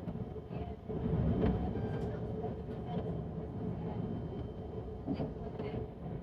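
Passenger train running, heard from inside the carriage: a steady low rumble with faint wheel clicks on the rails and a louder surge about a second in.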